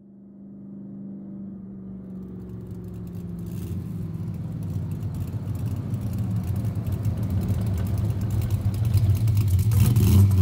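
A car engine running with a steady low hum, fading in from silence and growing steadily louder.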